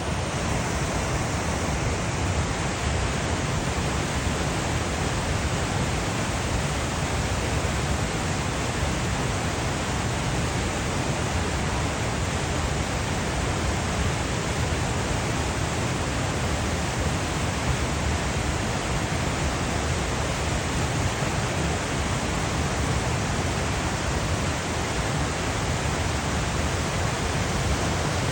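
Waterfall running high with flood water: a steady, unbroken rush of falling water.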